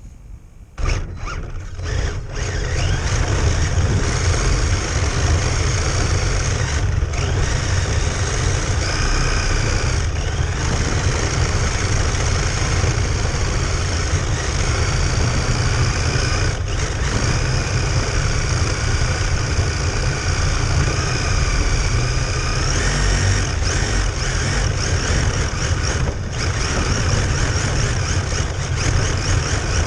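Radio-controlled car motor running on ice, a steady mechanical noise with high whining tones that shift in pitch over a heavy low rumble. It starts about a second in and settles at full level after two or three seconds.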